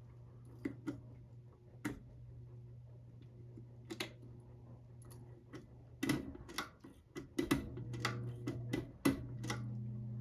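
Hampton Bay Gazebo Plus ceiling fan's motor humming steadily, with sharp clicks like a pull-chain switch being worked, scattered at first and then in a quick run about six to nine seconds in. After the last clicks the hum grows louder and takes on a new tone, as a speed change would.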